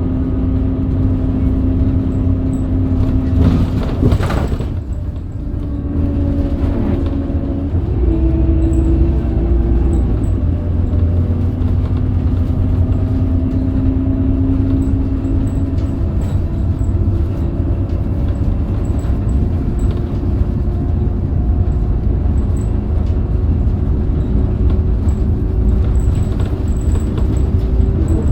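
Scania DC9 five-cylinder diesel of a Scania K270UB city bus with a ZF Ecomat automatic gearbox, running under way with a steady low rumble and whining tones. The tones step in pitch about 4 seconds in and again a few seconds later, with a brief noisy burst at the first change.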